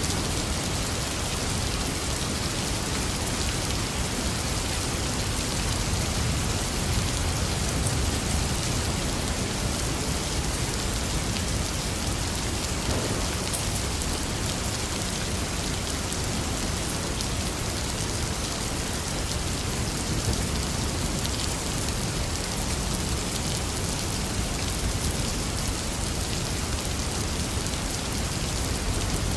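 Steady heavy rain falling and pattering on surfaces, an even wash of noise without a break.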